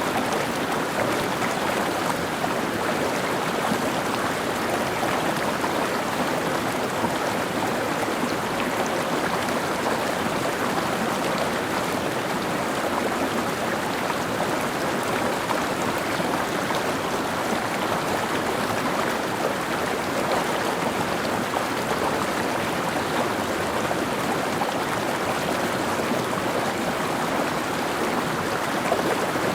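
Mountain stream running over rocks: a steady, even rush and babble of water with no breaks.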